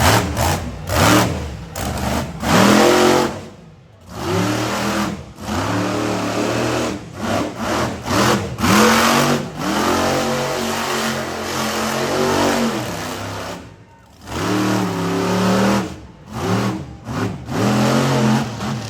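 Monster truck engine revving hard in repeated bursts, its pitch rising and falling as the throttle is worked. The sound drops away sharply twice, once about four seconds in and again near fourteen seconds.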